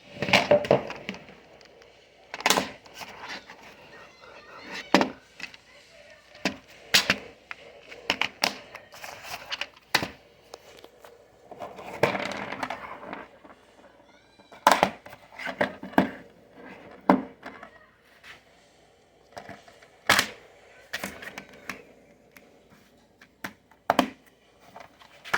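Plastic DVD cases being handled: irregular sharp clacks and knocks, roughly one every second or two, with rustling and shuffling between them.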